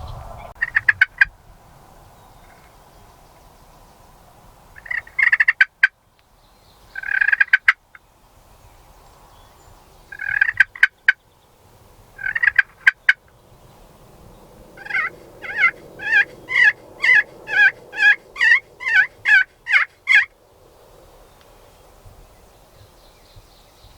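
Wild turkey calling: several short gobble-like bursts, then a run of about a dozen evenly spaced yelping notes near the end, two to three a second.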